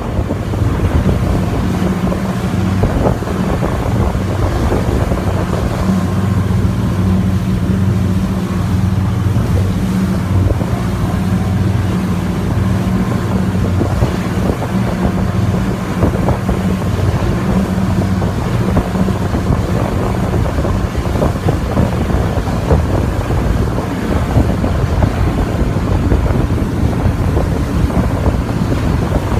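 Engine of a 25-foot whitewater boat running steadily with a low, even drone, and wind buffeting the microphone.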